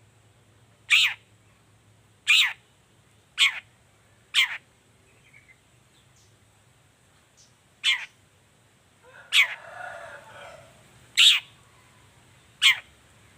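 Long-tailed shrike (cendet) calling: short, sharp notes that fall steeply in pitch, repeated about eight times at uneven gaps of one to two seconds, with a longer, rougher call just after nine seconds in.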